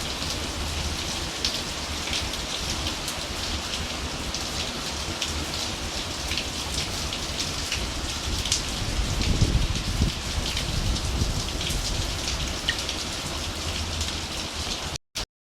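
Steady hurricane rain falling and pattering on surfaces, with wind rumbling on the phone's microphone and a gust swelling about nine seconds in. The sound cuts off abruptly near the end.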